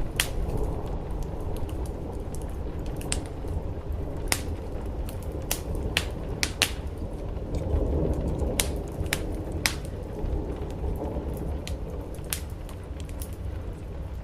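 Wood fire crackling, with sharp irregular pops, over a steady low rush of rain on a roof.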